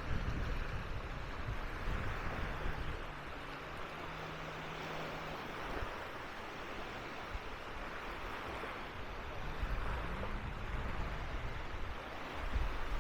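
Sea waves breaking and washing up the sand, swelling every few seconds, with wind rumbling on the microphone at times.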